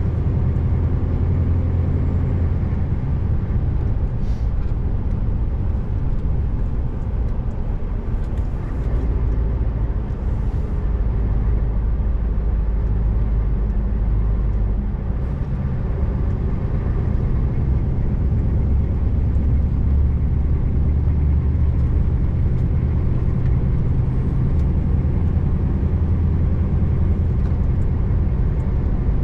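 Scania R590 truck's 16-litre V8 diesel running steadily under way, with road noise; the low engine note shifts a little in pitch now and then.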